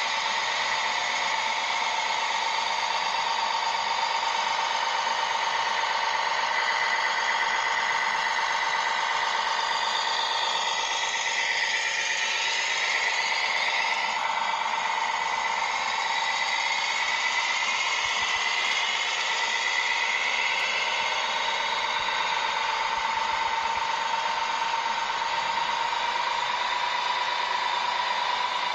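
Small electric motors and gearboxes of a radio-controlled construction model whining steadily. The pitch shifts as the model works and rises slightly near the end.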